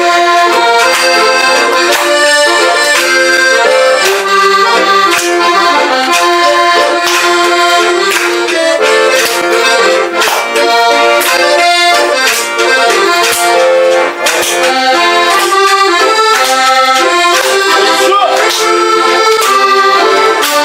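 Accordion playing a lively tune, its reedy chords and melody notes changing quickly, with frequent crisp rhythmic accents.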